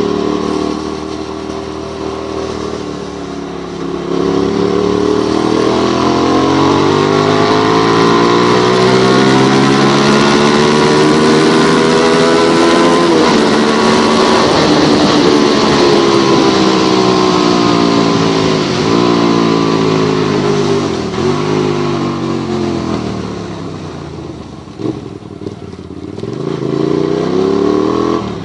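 Motorcycle engine under way, its pitch climbing and falling as the rider accelerates and shifts gear several times, over a steady hiss of wind and road noise.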